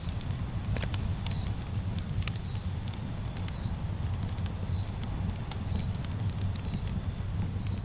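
Campfire burning: wood crackling with irregular sharp snaps over a steady low rumble. A short high chirp repeats about once a second.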